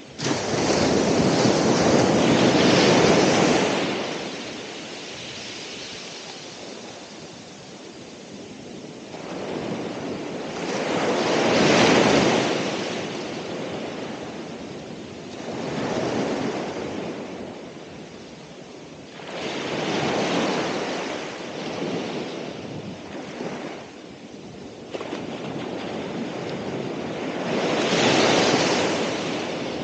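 Ocean waves breaking and washing up the shore. The surf swells and ebbs in about five surges several seconds apart, the loudest in the first few seconds.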